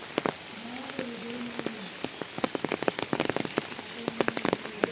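Heavy rain falling steadily, with many sharp, close drop strikes ticking over the hiss of the downpour.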